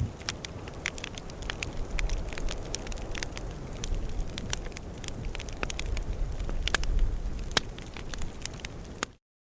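Campfire crackling, with irregular sharp pops and snaps over a low, steady rumble; it cuts off suddenly near the end.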